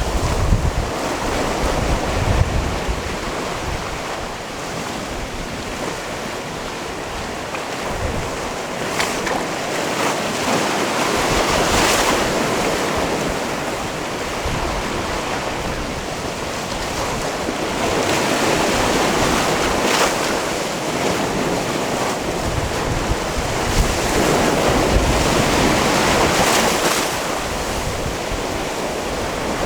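Sea waves washing in and out on a rocky, stony shore, the surf swelling and ebbing every few seconds, with wind buffeting the microphone now and then.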